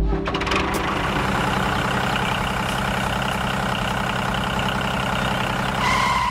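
An engine running steadily with a fast, dense rattle. It starts suddenly, a short higher tone joins near the end, and it cuts off abruptly.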